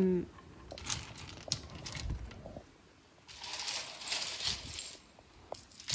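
Rocks being handled and set in place: scattered clicks and knocks of stone on stone, then a spell of crunching and scraping of rock and gravel.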